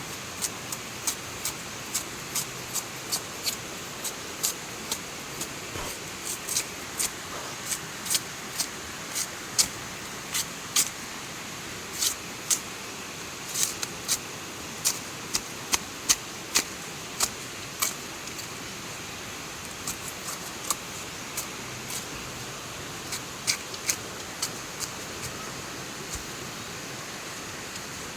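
Steady hiss of heavy rain, with a run of sharp, irregular ticks or taps over it. The taps come about two or three a second at first and thin out after about two-thirds of the way through.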